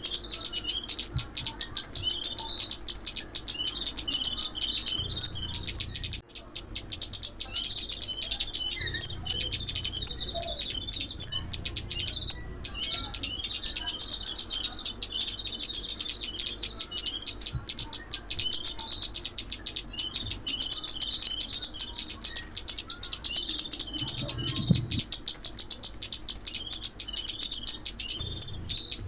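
Sunbird song played as a trapping lure: rapid, high-pitched twittering and chirping over a thin steady high note. It runs almost without pause, with two short breaks.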